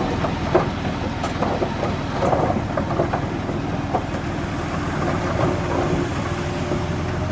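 Diesel engine of heavy earthmoving machinery running steadily, with scattered metallic clanks and rattles over the drone.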